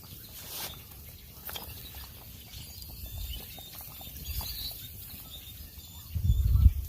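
Outdoor ambience: a few faint, short bird chirps over a steady low rumble and scattered small clicks, with a louder low rumble or thump near the end.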